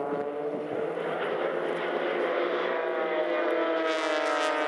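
Extra 300 aerobatic aircraft flying a display, their propeller engine note steady at first, then wavering and rising in pitch near the end.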